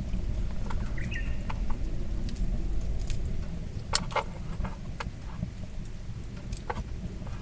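Wood fire crackling, with scattered sharp pops over a low steady rumble. A brief high squeak about a second in.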